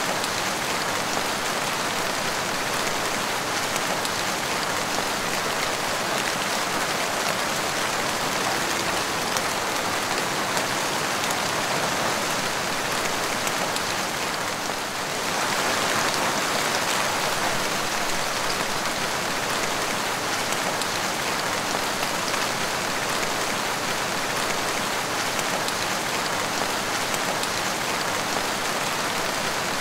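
Steady rain falling and splashing on a wet tiled porch floor, with a brief dip in level about halfway through.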